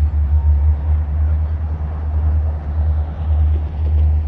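Low, steady rumble of diesel locomotives working a switching move.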